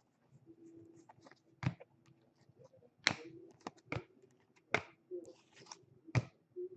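Baseball cards and packs being handled on a table: about six sharp snapping clicks, irregularly spaced, with light rustling between them.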